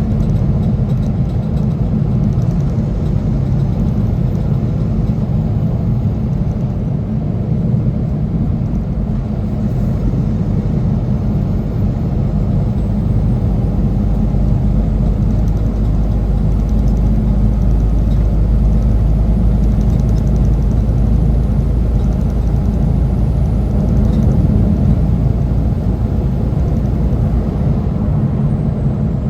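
A semi truck's engine and road noise while driving: a steady low rumble with no change in level.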